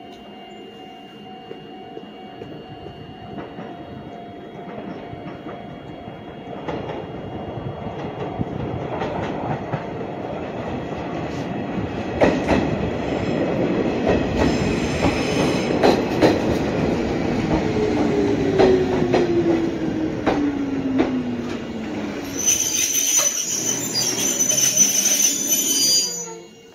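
An Izuhakone Railway Sunzu Line electric train approaching and growing steadily louder, with wheels clicking over rail joints. A falling whine comes about two-thirds of the way through, then a high, steady wheel squeal before the sound cuts off.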